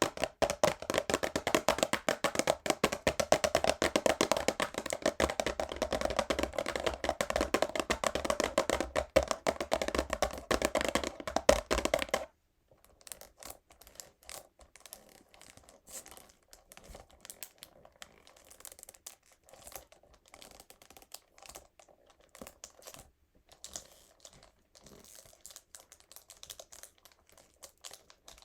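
Fingernails tapping very fast on a cardboard perfume box: a dense, loud clatter that cuts off abruptly about twelve seconds in. After it come softer, sparser scratching and crinkling sounds, like nails on the box's plastic wrap.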